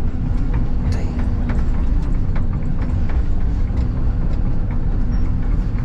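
Excavator's diesel engine running steadily, heard from the operator's seat, with scattered light clicks and knocks over the drone.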